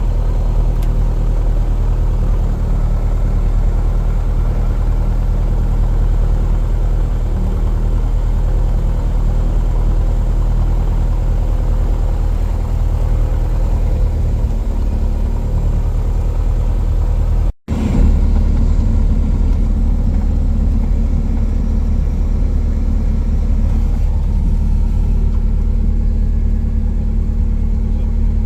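Cessna 177 Cardinal's piston engine running steadily. It cuts out for an instant about two-thirds of the way through, then goes on with a slightly different tone.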